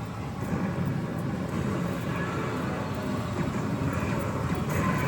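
Steady noisy din from a pachislot machine in a parlour, with no voice or music over it.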